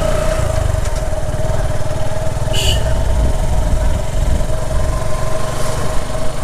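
Suzuki Gixxer SF FI's single-cylinder motorcycle engine running with a steady low rumble and a thin steady whine above it. A short high chirp comes about two and a half seconds in.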